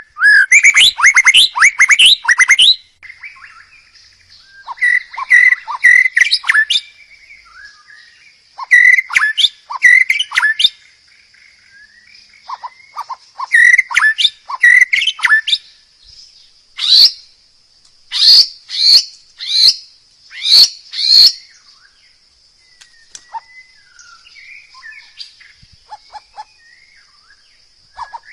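A songbird singing in loud bursts of rapid, varied whistles and chattering notes, with short pauses between phrases. A faint steady high tone runs under the song from a few seconds in.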